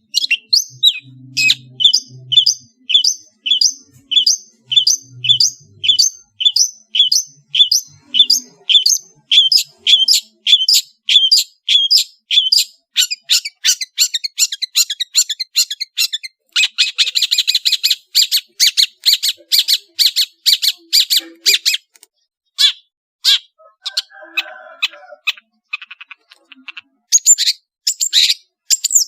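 Long-tailed shrike (cendet) singing: a long run of sharp, evenly repeated notes about two a second, which breaks about halfway through into fast, harsh chattering. Scattered notes follow, and another burst of chatter comes near the end.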